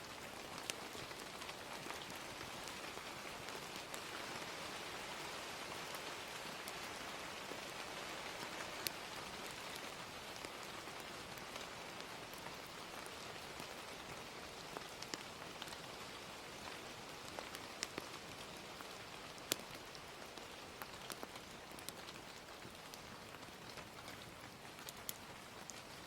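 Steady gentle rain, with scattered sharp crackles and pops from a fire.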